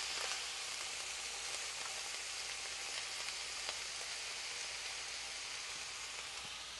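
Diced onion and red bell pepper sizzling in olive oil in a skillet as they are stirred with a wooden spatula, with a few faint clicks from the spatula. The steady sizzle eases slightly toward the end.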